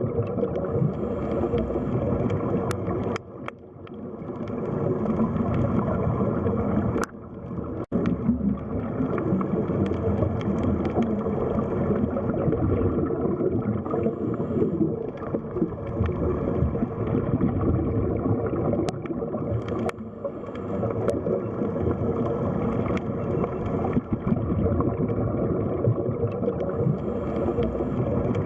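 Underwater sea ambience: a steady, dense rush and gurgle of water, with brief dips in level about three and seven seconds in.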